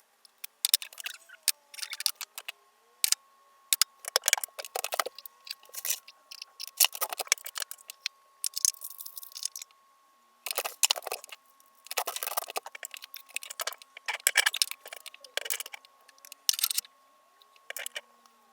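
Food packages, jars and cans being handled and moved about: rustling, clicks and light knocks in short, irregular bursts, with a faint steady high tone underneath.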